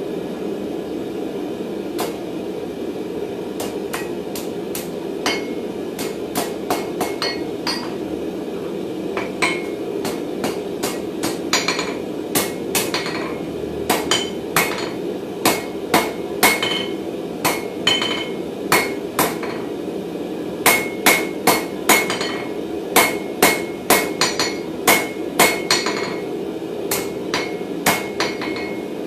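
Hammer blows on a bar of 16 mm round mild steel over an anvil while forging it: irregular sharp strikes with a ringing tone, coming more often and harder from about a third of the way in, over a steady low rush.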